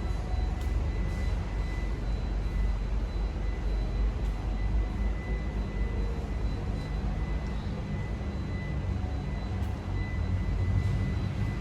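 A car engine running steadily with a low rumble, and a faint steady high whine over it.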